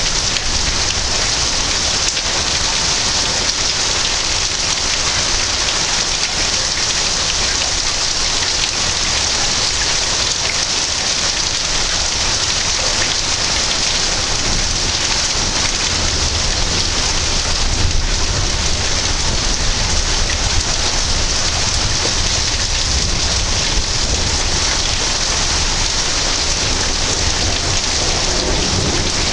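Heavy rain falling steadily, with a low rumble of thunder rising and fading through the middle of the stretch.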